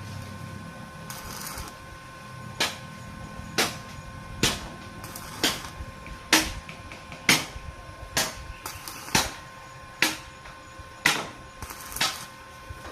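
Hammer blows, about eleven sharp strikes at roughly one per second, over a faint steady whine.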